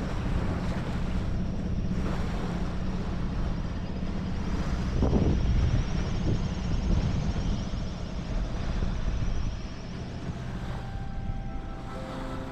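Sailboat's diesel engine running steadily while motoring in a calm, a low even hum, with wind noise on the microphone. Music fades in near the end.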